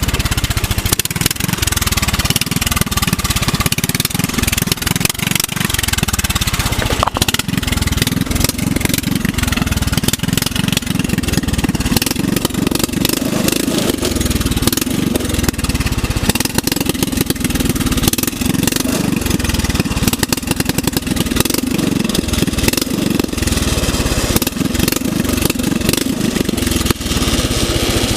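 Small engine of a riding lawnmower converted into a go-kart, running steadily with a rapid, even firing beat; its note shifts a little about seven seconds in.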